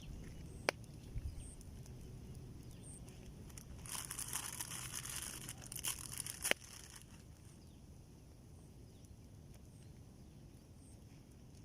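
Faint rustling and crinkling, like a plastic packet being handled, for a couple of seconds in the middle, ending in a sharp click, with a single click shortly after the start; a quiet outdoor background otherwise.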